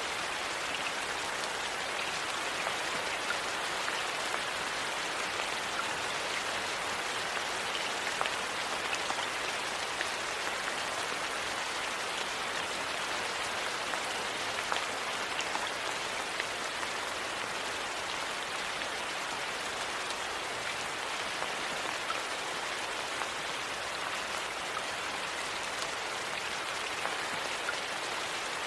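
Steady rain falling, an even hiss, with a few faint ticks and pops scattered through it.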